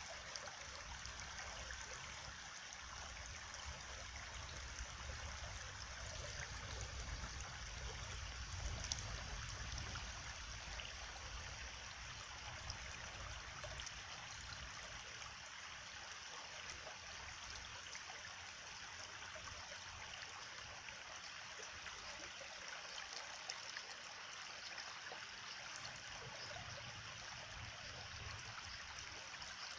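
Running water, a steady rushing with a low rumble underneath that swells about a quarter of the way through and again near the end.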